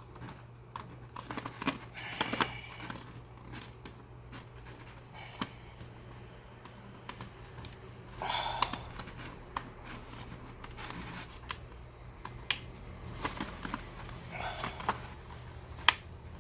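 Scattered sharp plastic clicks and taps with a few short scrapes as an HP 15s laptop is handled and its case pried at, over a steady low hum.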